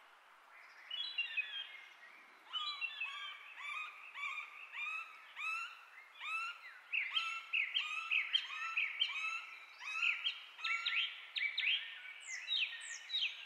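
Birds chirping: several overlapping, quickly repeated sweeping calls, a couple a second, with a pair of higher-pitched calls near the end.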